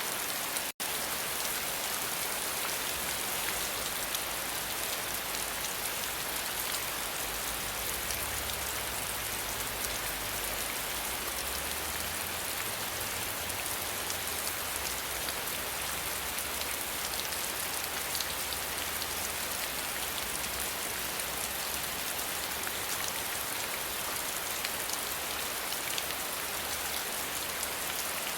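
Steady rain falling, a dense patter of drops with a constant hiss that is strongest in the high range. It cuts out for an instant a little under a second in.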